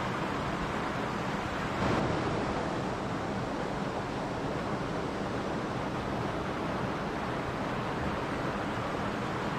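Mountain stream rushing and babbling in a steady, unbroken flow, with a brief swell about two seconds in.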